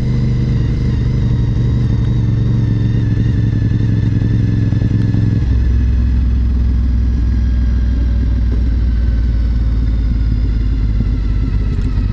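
A 2004 Honda RC51 SP2's 1000cc V-twin engine running steadily under way. About halfway through, the engine note drops abruptly, then sinks slowly.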